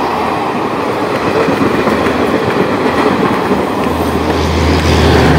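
Passenger train coaches rolling past a station platform, their wheels rumbling and clattering on the rails. A low steady hum joins in about four seconds in.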